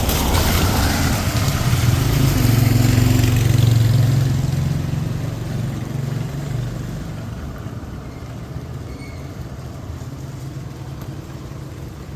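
A motor vehicle passing close on a wet street: a low engine hum with tyre hiss, loudest for the first four seconds and then fading away, over a steady hiss of rain.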